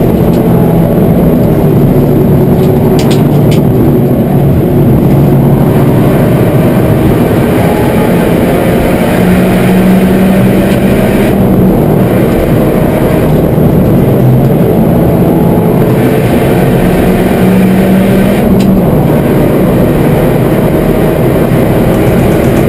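Peugeot 207 rally-prepared hatchback driven hard up a mountain road, its engine note rising as it accelerates and dropping twice, about halfway and near the end. Dense road and wind noise runs under the engine.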